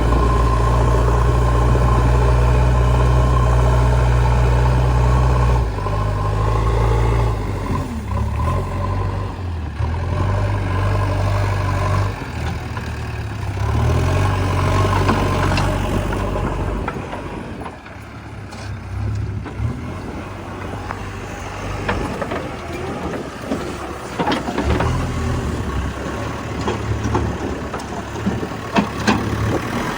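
Heavy diesel engine of a JCB 3DX backhoe loader running steadily under load, then revving up and down over and over as the machine works. After it settles lower, several sharp knocks come near the end.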